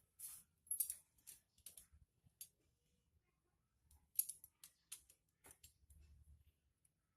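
Light metallic clicks and taps of hand tools and engine parts being handled, coming in irregular clusters, during assembly of a motorcycle engine.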